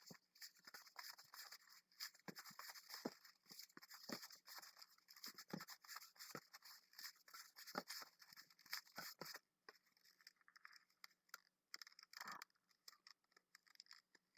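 Faint rubbing, squeaks and clicks of a latex 260 modelling balloon being pinched and twisted into a series of small bubbles. Busy for the first nine seconds or so, sparser after that.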